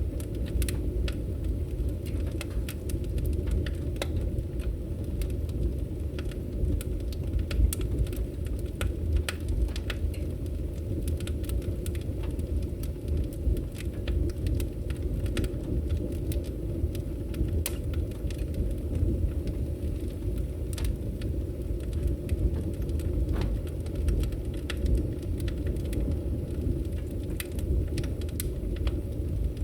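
Wood fire in a fireplace burning with a steady low rumble and frequent sharp crackles and pops at irregular intervals.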